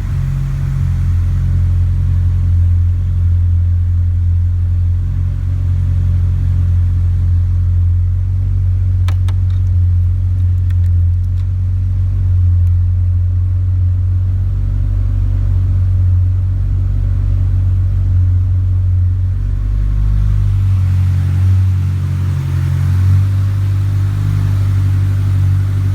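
Built Nissan FJ20 twin-cam four-cylinder turbo engine, enlarged to 2.1 litres with a TD06-25G turbocharger and 280-degree cams, running steadily in a DR30 Skyline RS-Turbo. Its tone shifts a little about twenty seconds in.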